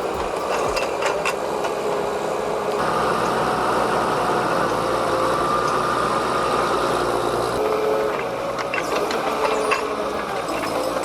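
Heavy machine engine running steadily, with rattling and scattered clicks and knocks.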